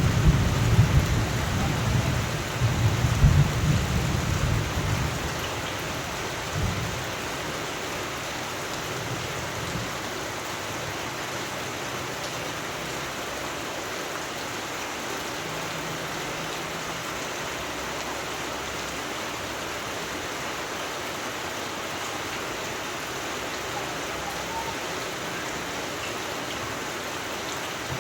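Thunder rumbling over steady rain, dying away after the first six seconds or so. After that, only the even hiss of steady rain.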